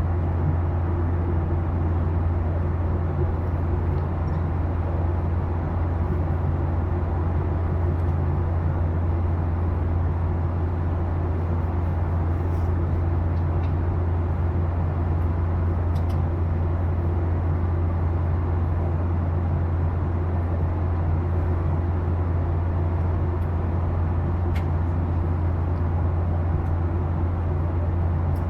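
Steady engine and airflow noise heard inside the cabin of a Boeing 737-800 with CFM56-7B engines: an even, unchanging drone with a strong low hum.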